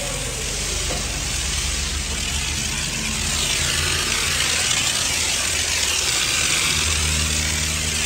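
High-pressure car-wash spray hissing steadily over a low, even machine hum; the spray swells in the middle and eases off near the end.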